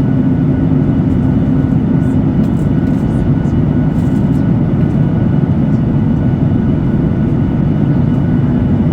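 Steady engine and airflow noise inside the cabin of a Boeing 737-8200 with CFM LEAP-1B turbofans: a loud, even low rumble with a few faint steady tones above it.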